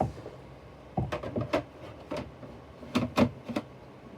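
Plastic clicks and knocks of a filter being fitted into a Dirt Devil Vision upright vacuum: a tap at the start, a cluster about a second in, and a few more around three seconds.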